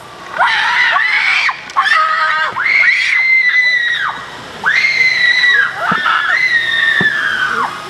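Girls screaming: a string of five or six long, high-pitched screams, each about a second long and dropping in pitch as it ends.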